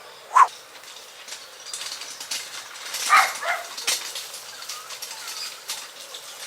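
Outdoor rural background of animal and bird calls: a short loud call about half a second in, a longer pitched call about three seconds in, and faint chirps later, over scattered light clicks and knocks.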